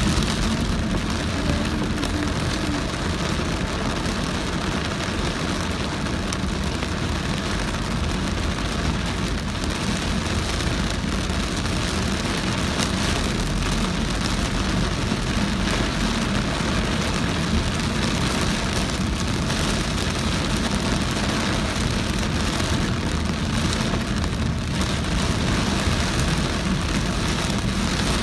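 Heavy rain on a moving car, steady, mixed with the car's road noise through flooded, wet streets.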